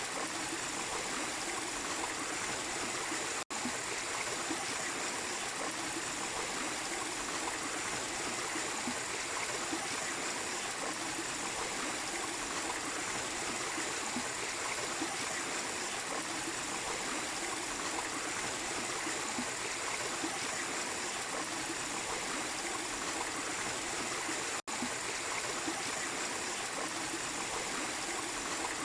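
Small waterfall splashing and rushing steadily over rocks, cutting out for an instant twice.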